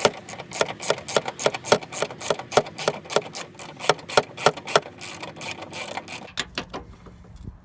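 Hand ratchet wrench clicking rapidly, about five or six clicks a second, as motor mount bolts are run in and snugged; the clicking thins out after about six seconds.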